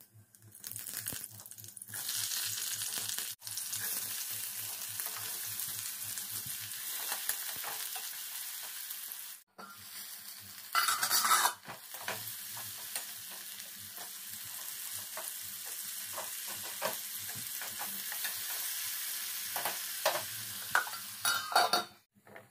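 Oil sizzling in a stainless steel kadai, first around whole seeds just dropped in, then, after a break about halfway, around frying chopped onions, curry leaves and green chillies. In the second half a metal spoon scrapes and clicks against the pan as it stirs, with a brief louder burst of sizzling near the break. The sound stops abruptly just before the end.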